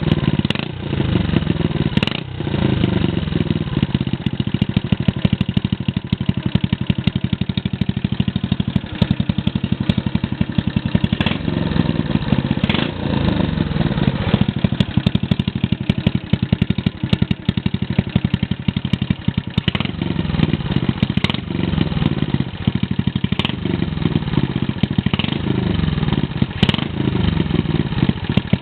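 Honda Little Cub's small single-cylinder four-stroke engine running through a homemade muffler, a rapid exhaust beat that rises and falls in pitch several times as the engine speed changes.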